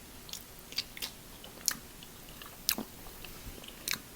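Close-miked eating of seafood boil: a few sharp wet clicks and crunches of biting and chewing, the loudest a little past halfway.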